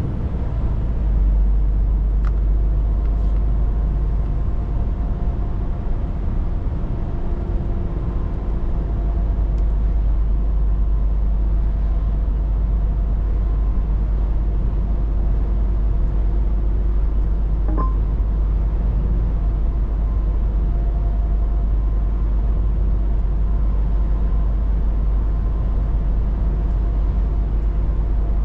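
Scania 500 S truck driving at a steady speed: an even, deep engine and road drone with faint steady whines above it. A brief tick about two seconds in.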